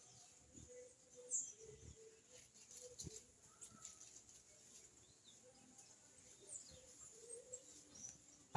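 Faint, short, high bird chirps now and then, with a few soft low knocks and a faint steady hum beneath.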